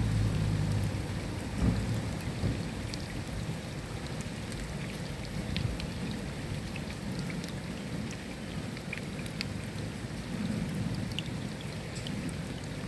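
Steady rain with scattered individual drop strikes. A low roll of thunder dies away over the first couple of seconds.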